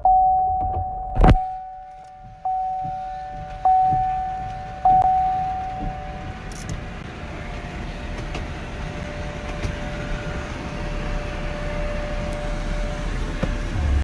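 A vehicle's two-note warning chime dinging about once every 1.2 seconds, with a sharp thump about a second in. After about five seconds the chime fades into a steady low hum of vehicle and outdoor noise.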